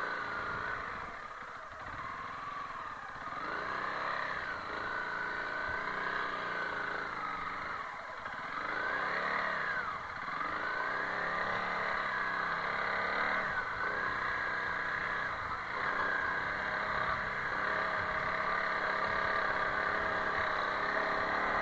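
Honda CRF300L Rally's single-cylinder four-stroke engine running at low speed as the motorcycle is ridden, its revs rising and falling several times with the throttle.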